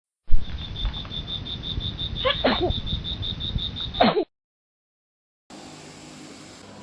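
Night ambience of an insect chirping in fast, even pulses, about eight a second, with a few frog calls sweeping down in pitch. It cuts off suddenly about four seconds in.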